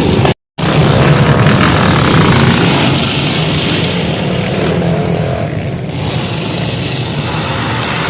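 Motor vehicle engine running steadily under a loud rushing noise, with a brief cut to silence about half a second in.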